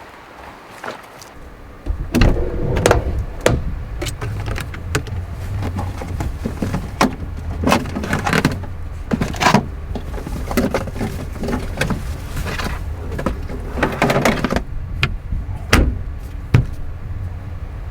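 Off-road vehicle driving slowly over a rough trail: a steady low engine and road drone with frequent rattles and clunks from the body and loose gear. The drone comes in suddenly about two seconds in.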